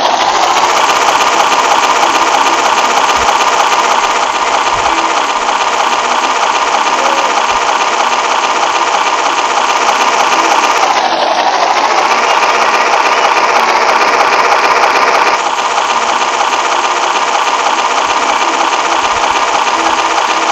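Small electric motor and gearbox of a toy truck whirring steadily as it pulls a loaded trailer. The whine sags in pitch about eleven seconds in, as if under extra load, then picks back up.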